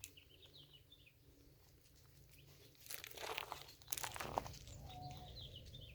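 Faint crunching steps or movement starting about three seconds in, with small birds chirping faintly in the background.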